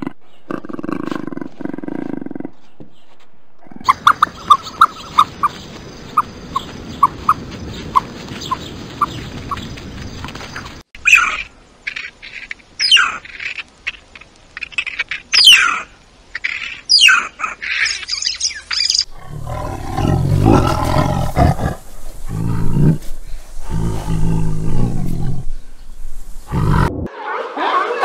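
A string of animal calls. A puma snarls twice at the start. After a pause comes a run of regular short chirps, about two a second. Then meerkats give sharp, high squeaks that fall in pitch, and near the end a larger animal makes loud, deep calls.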